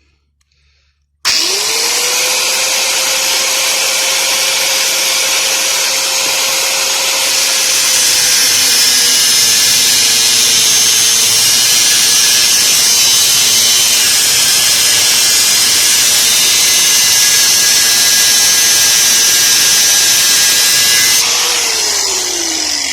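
Angle grinder with its guard broken off starts abruptly about a second in and cuts into metal, a steady high motor whine with a hissing grind over it. The pitch sags a little as the disc bites. Near the end it is switched off and winds down with falling pitch, the cut not yet all the way through.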